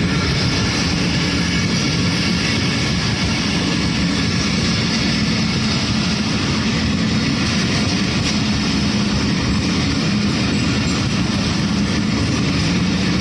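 Passenger train coaches rolling through a station, a loud, steady rumble of wheels on rail that does not let up.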